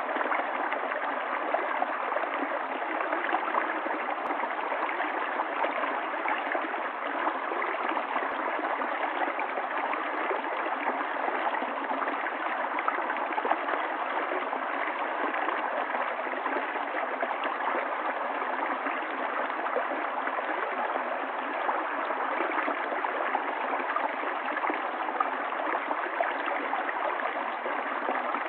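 Stream water running steadily, an even rush with no breaks or changes.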